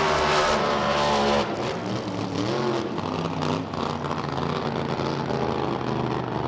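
Drag boat racing engine running hard, dropping away abruptly about one and a half seconds in to a quieter engine sound whose pitch wavers up and down.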